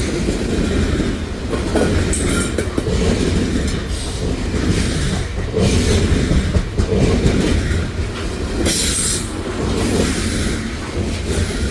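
CP Rail coal train's cars rolling past close by: a steady, heavy rumble of steel wheels on rail, with a few short high-pitched patches, the loudest about nine seconds in.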